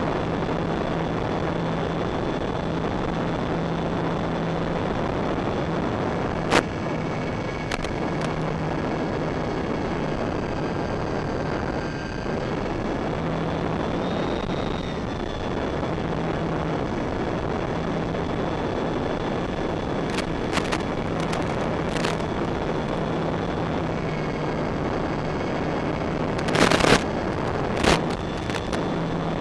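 Electric motors and propellers of a Durafly Tundra VTOL model plane whining steadily in flight, their pitch shifting with throttle, under a heavy rush of wind noise. A few sharp cracks break in, one about a third of the way through and a cluster near the end.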